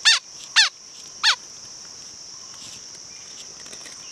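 A bird gives three sharp, steeply falling whistled calls about half a second apart, over a steady high drone of insects.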